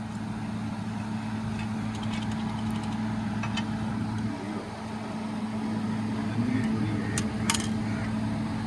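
A steady low machine hum, like an engine or motor running, with a couple of sharp metallic clinks about seven seconds in.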